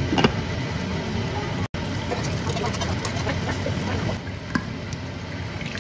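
Meat-stuffed bitter melon rings frying in oil in a lidded pan: a steady sizzle with scattered crackles, and a short knock near the start.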